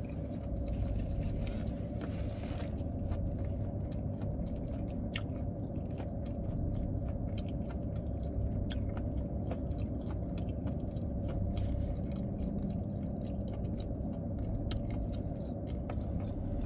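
Close-up chewing of fried chicken gizzards and livers, with scattered sharp crunches. A steady low hum from the car interior runs underneath.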